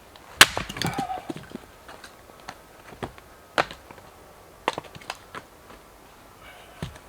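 Firewood being processed: a loud crack of wood breaking about half a second in, with splintering crackle for about a second after, then four more single sharp knocks spaced out over the rest of the time.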